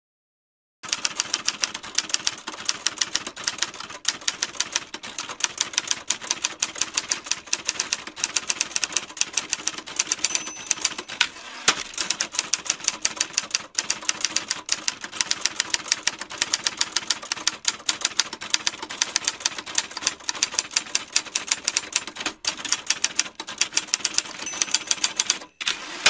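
Typewriter keys being typed quickly, a steady clatter of sharp key strikes at several a second, starting about a second in.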